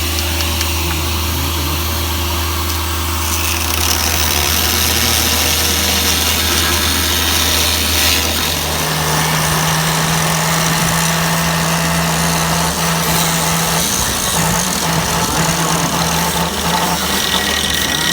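An engine running steadily at idle, with a steady hiss over it. About halfway through, a second, higher-pitched hum joins in.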